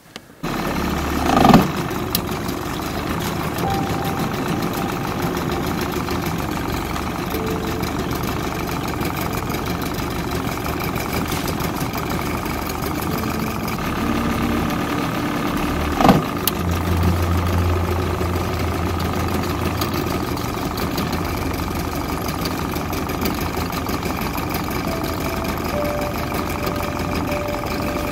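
Boat motor running steadily on the water. Two short, sharp louder sounds cut through it, one about a second and a half in and another a little past the middle.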